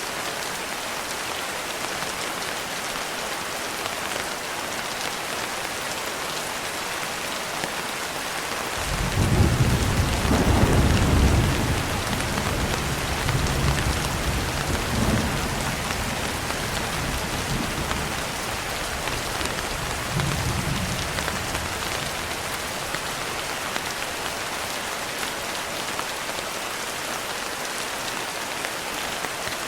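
Steady rain falling, with a roll of thunder that starts about nine seconds in, is loudest for the first few seconds, then rumbles on in a couple of weaker swells and fades away.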